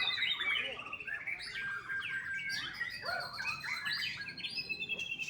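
Young white-rumped shama singing a continuous, varied song of clear whistles and fast trills, its phrases rising and falling quickly.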